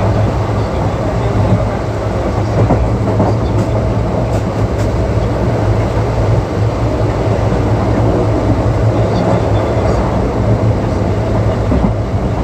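Indian Railways ICF passenger coach running at speed, its wheels giving a steady rumble over the track with a few faint clicks.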